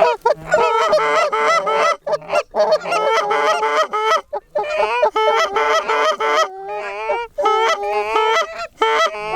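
Canada goose honks and clucks, many short calls in quick succession with brief gaps, some rising and falling in pitch.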